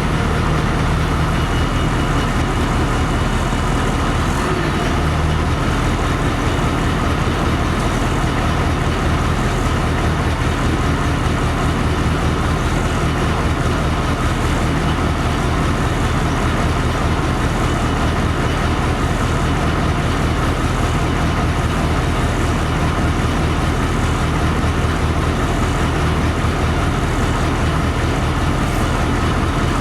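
Inside a LiAZ-5256.46 bus: its engine runs at a steady note under a constant hum of cabin and road noise.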